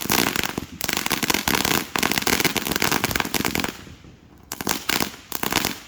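Fireworks crackling in a dense, rapid run of pops for about three and a half seconds, then dying down, with two shorter bursts of crackle near the end.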